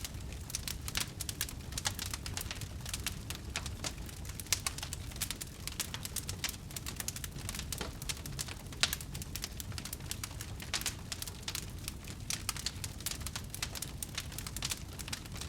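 Wood fire burning, with a steady low rumble under dense, irregular sharp crackles and pops.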